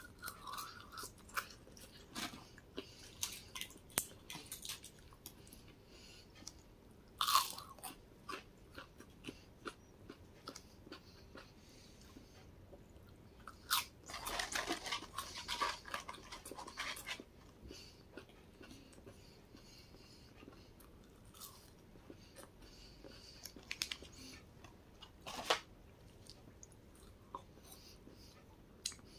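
Close-up mouth sounds of someone chewing McDonald's french fries: soft crunching and wet chewing with scattered sharp bites. Paper fry carton rustling as a hand reaches into it about halfway through.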